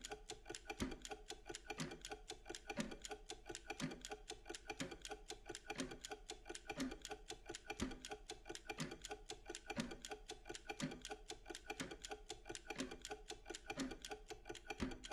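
Steady, even clock ticking: rapid fine ticks with a deeper tick about once a second.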